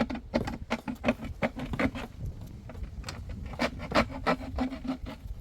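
A quick, irregular series of scraping and knocking strokes, several a second.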